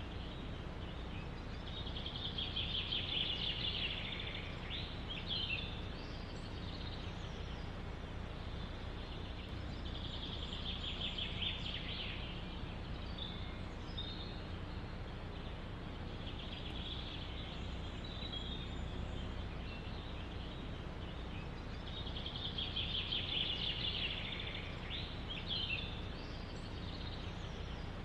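A songbird singing a trilled phrase of a few seconds, ending in quick sweeping notes, repeated four times at intervals of several seconds. A steady low rumble runs beneath it.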